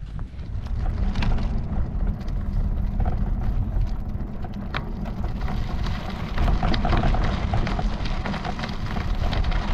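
Wind buffeting the microphone as a bicycle is ridden along a road: a steady, uneven low rumble with a few small clicks.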